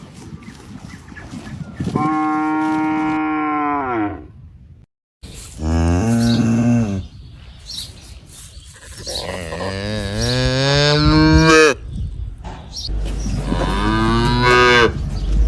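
Cattle mooing: four long moos a few seconds apart, each dropping in pitch as it ends.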